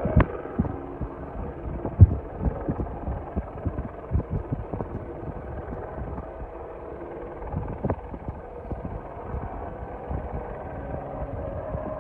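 Helicopter noise: a steady, throbbing drone of engine and rotor, with uneven low thumps through it, the strongest about two seconds in.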